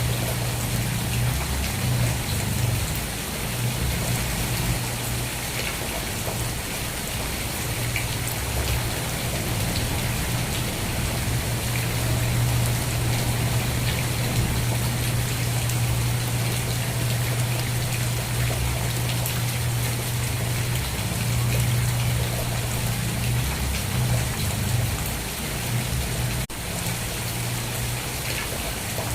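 Steady rain falling, an even hiss of drops on a surface, with a steady low hum underneath.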